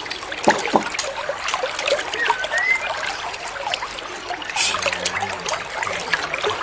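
Trickling stream water with scattered bird chirps, including a short rising whistle a little over two seconds in.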